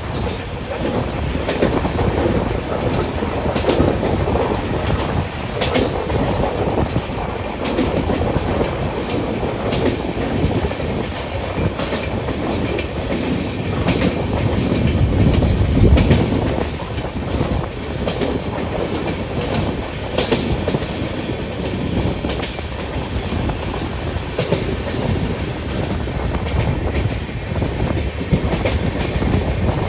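Ajmer Shatabdi express train running, a steady rumble of wheels on rails with irregular clacks as the wheels cross rail joints, swelling loudest about halfway through.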